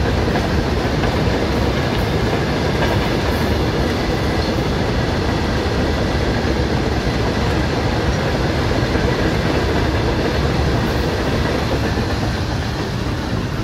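Indian Railways freight train's open-top wagons rolling past, a steady, loud noise of steel wheels running on the rails that eases slightly near the end.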